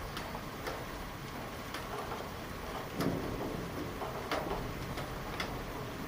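Steady rain, with single heavy drops striking a hard surface close by every second or so.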